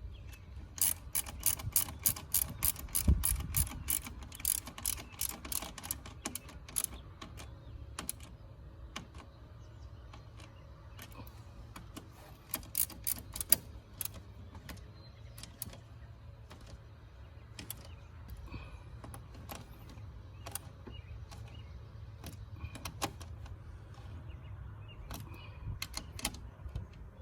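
A quarter-inch-drive socket ratchet clicking in quick runs as the thermostat housing bolts are wound down, with scattered single clicks later on.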